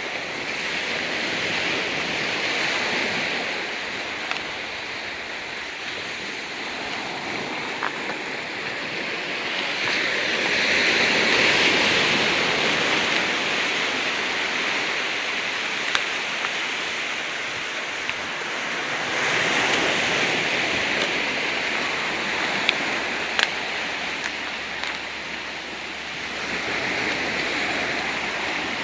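Ocean waves washing onto a rocky beach, swelling and easing in slow surges about every eight to nine seconds, with a few faint sharp clicks among them.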